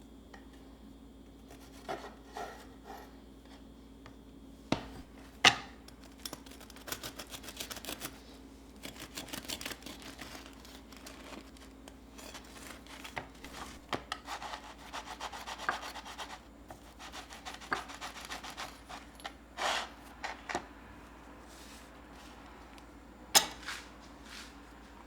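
Scratchy rubbing strokes on a hard surface, in two longer stretches, with a few sharp knocks, the loudest about five seconds in and another near the end.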